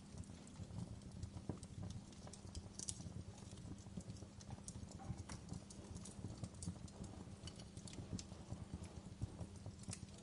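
Fireplace crackling: irregular snaps and pops over a low, steady rumble.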